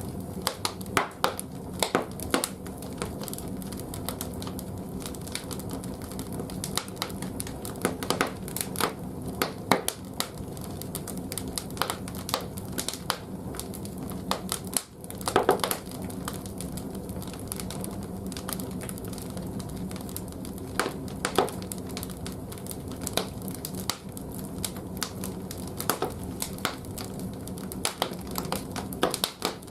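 Large firewood burning in a wood-fired boiler's firebox, crackling and popping irregularly over a steady low hum.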